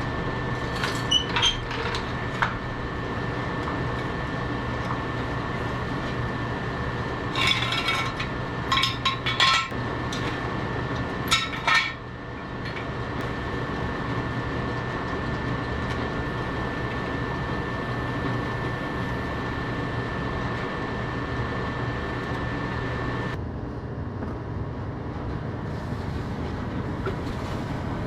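John Deere 170 skid steer's engine running steadily, with bursts of sharp metallic clinking about a second in and again from about 7 to 12 seconds in.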